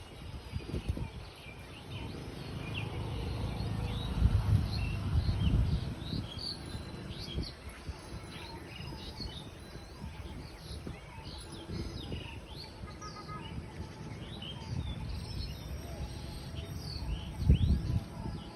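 Several birds chirping with many short calls throughout, over a low rumble that swells about four to six seconds in and again near the end.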